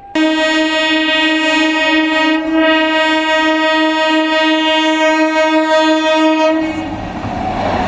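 Train horn sounding one long steady blast of about six and a half seconds, followed by the rushing noise of the train passing close by.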